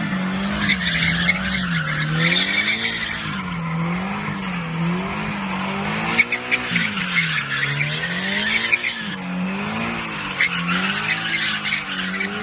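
A car doing a burnout: the engine revs up and down over and over as the throttle is worked, while the spinning tyres squeal.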